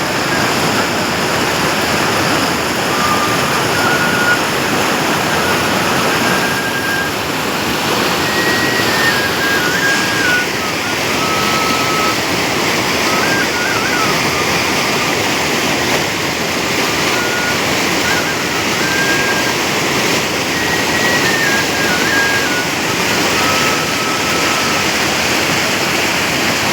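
Rushing water of a mountain stream as a loud, steady hiss, with a bansuri (bamboo flute) playing a slow melody of held notes over it.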